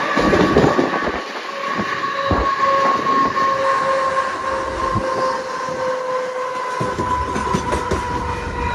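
A Mumbai Central Railway electric local train running close alongside on the next track, its wheels clattering over rail joints with scattered thuds. A steady high whine holds throughout, sinking slightly in pitch.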